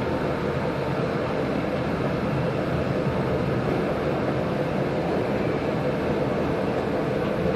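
Train running steadily along the track, heard on board: a constant rumble with a steady hum.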